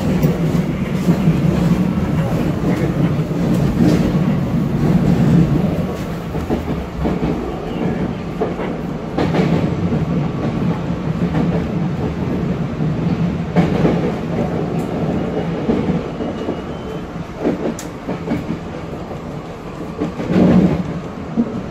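Ride noise inside a moving Metro-North M3A electric multiple-unit car: a steady low hum and rumble from the running train, with a few louder clacks of the wheels over rail joints and switches.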